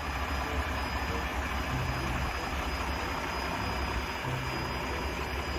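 Steady engine-like running noise with a low hum, starting and stopping abruptly.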